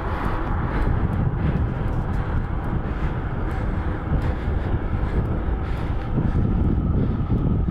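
Wind rushing over a phone's microphone while cycling, a steady low rumble with a hiss above it.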